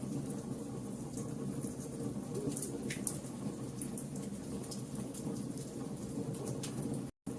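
Fire crackling and popping over a steady low rumble of burning, with many short sharp snaps. The sound cuts out completely for a moment near the end.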